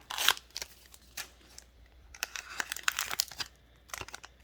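Foil booster pack wrapper crinkling as it is handled, in a short burst at the start and a longer stretch of rustling crackle in the middle.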